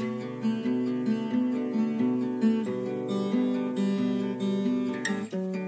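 Acoustic guitar music, fingerpicked notes in a steady pattern, with no singing.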